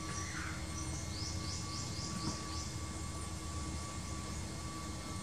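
A bird calling: a quick run of six or seven short, high, falling chirps, about four a second, starting about a second in. Under it runs a steady outdoor hum and low rumble.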